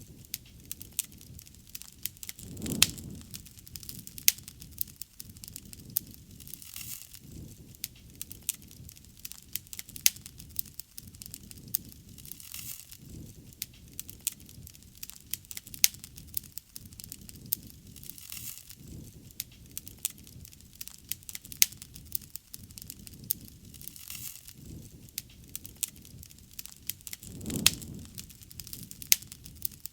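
Wood bonfire burning, crackling steadily with frequent sharp pops of snapping wood. A low rushing swell rises about three seconds in and again near the end.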